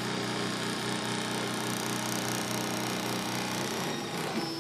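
Solidoodle 3 3D printer running, its stepper motors humming a steady chord of tones as the print head lays down the walls of a part. The pattern of tones changes near the end as the head's movement changes.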